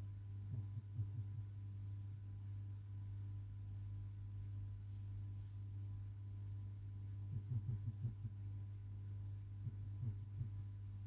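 A steady low hum with three brief clusters of soft clicks: about half a second in, around seven and a half seconds, and near the end.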